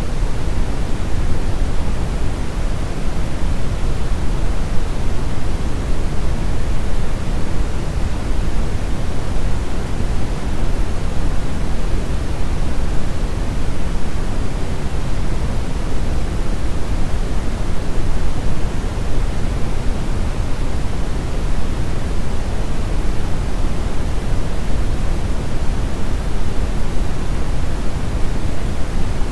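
Brown noise: a steady, even rushing hiss, strongest in the bass.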